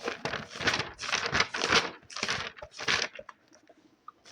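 Paper being crinkled and rustled close to the microphone in about six quick strokes, stopping a little after three seconds in.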